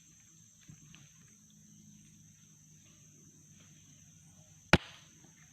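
A single sharp air-rifle shot about three-quarters of the way through, over a steady high-pitched drone.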